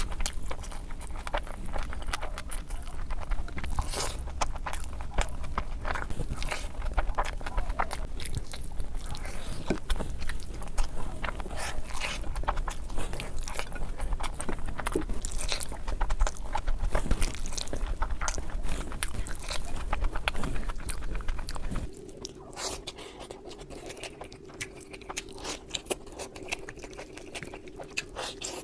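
Close-miked mukbang eating sounds: wet chewing, biting and crunching, sped up to double speed. About three quarters of the way through the recording changes to a quieter one with a steady faint hum under the chewing.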